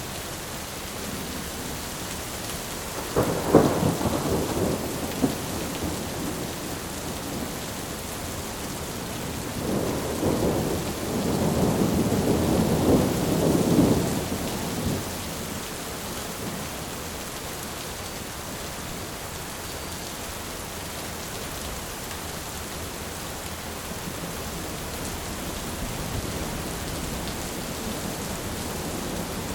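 Thunderstorm: steady heavy rain hiss, with a sharp thunder crack about three seconds in and a longer rolling rumble of thunder from about ten to fifteen seconds.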